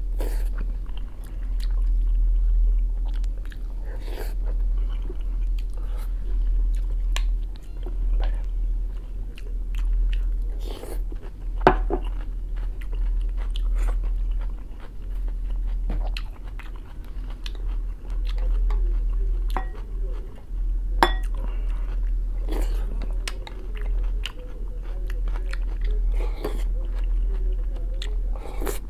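Close-up chewing, biting and mouth sounds of a person eating a buckwheat salad with sweet pepper from a wooden spoon, with small irregular crunches. There are two sharper clicks, about twelve and twenty-one seconds in, over a steady low hum.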